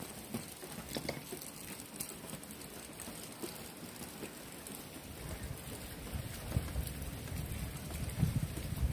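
Typhoon rain falling steadily, with scattered drops ticking on nearby surfaces. From about halfway in, gusts of wind buffet the microphone with a low rumble that grows louder.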